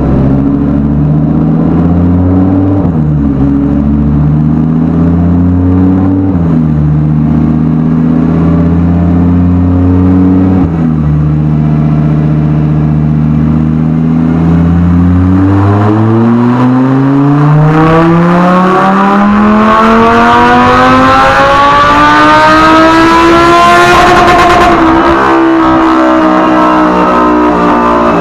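Lamborghini Huracán's V10 through a Soul Performance race exhaust, run on a chassis dyno: it pulls up through the lower gears with three upshifts, each dropping the revs, then climbs in one long full-throttle pull to its peak about 24 seconds in, and the revs fall away as the throttle is lifted.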